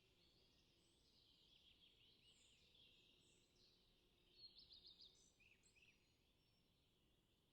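Faint birdsong: many small birds chirping and trilling, with a brief louder run of quick chirps about four and a half seconds in.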